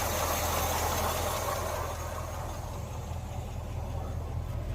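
1948 Ford F5 bus engine idling steadily, running on a weak but steady fuel flow from its own tank to the carburetor. A hiss over it fades out about two seconds in.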